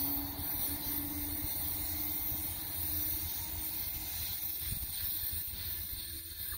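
ICE high-speed electric train running away along the track, its steady hum fading into the distance about halfway through, over a constant low rumble.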